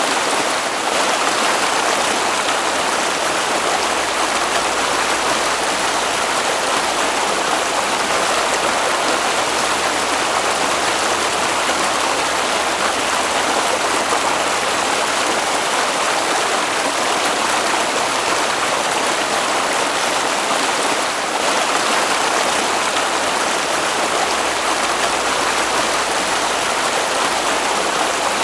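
A stream flowing steadily: an even, unbroken sound of running water.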